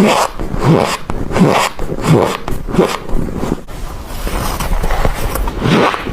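Frost crunching in a steady rhythm, about one and a half gritty crunches a second.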